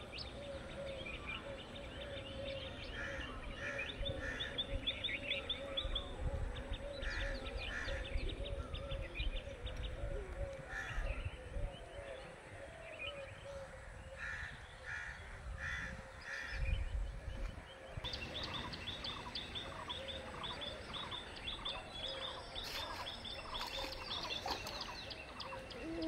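Birds chirping and calling in quick repeated notes, several at once, with low rumbles now and then.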